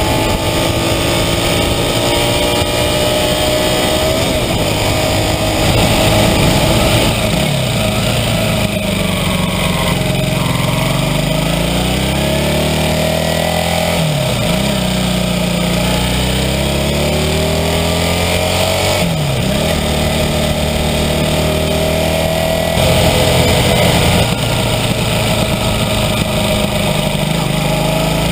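1982 Honda CB400N Superdream's parallel-twin engine running under way, heard from a fork-mounted camera. Its pitch rises and falls with the throttle and dips sharply and recovers several times, over steady wind and road noise.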